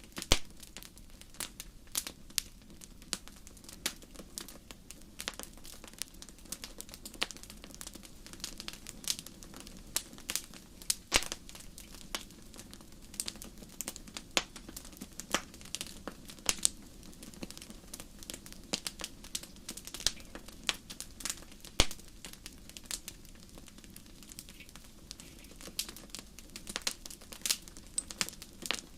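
Wood fire in a fireplace crackling: irregular sharp pops and snaps, several a second with an occasional louder crack, over a steady low rumble of the flames.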